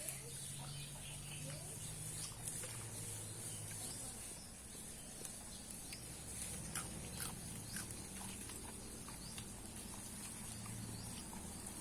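Faint chewing while eating, with scattered small clicks, over a steady high-pitched drone of insects.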